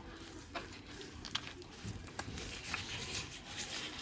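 Faint, scattered soft clicks and wet squishes of fingers working under the skin of a raw duck to loosen it from the meat.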